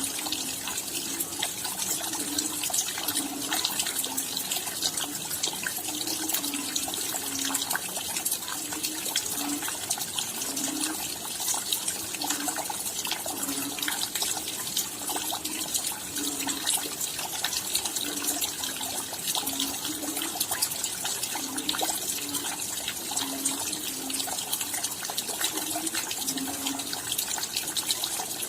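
Steady rain: a dense hiss of falling drops with many sharp ticks, and low plopping drips landing irregularly about once or twice a second.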